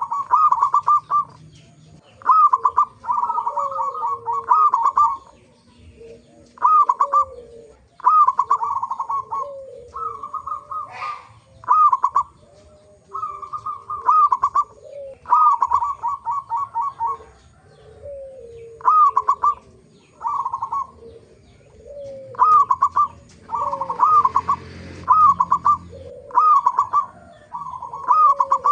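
Zebra doves (local perkutut) cooing over and over, each phrase a quick run of rolling notes repeated every second or two, with lower, falling coos woven between them.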